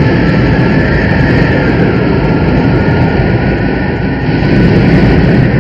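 Film sound effect of a tornado's wind: a loud, steady rushing roar with a faint high whistling tone held above it.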